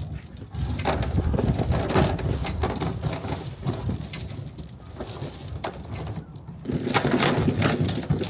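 Heavy steel anchor chain clattering and rattling as it is handled and piled link over link, in two spells with a lull in the middle.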